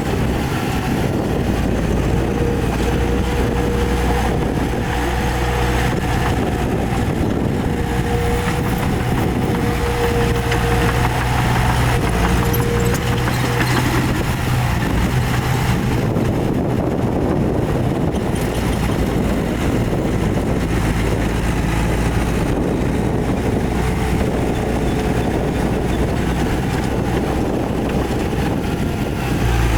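Heavy diesel earthmoving machinery running steadily under load, with a thin whine that comes and goes.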